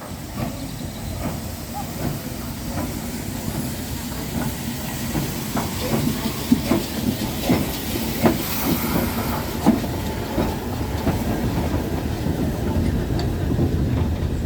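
Railway locomotive moving slowly along the track, a steady rumble with irregular clicks and knocks of the wheels over rail joints and points, and a hiss in the background.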